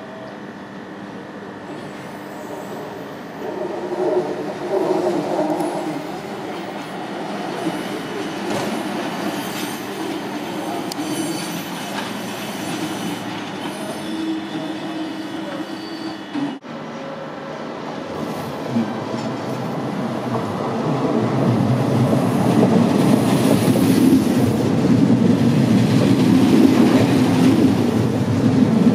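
Passenger trains moving through a station yard: steady wheel and running-gear noise with thin squealing tones in the first half. Later a double-deck electric train passes close by, its noise growing steadily louder.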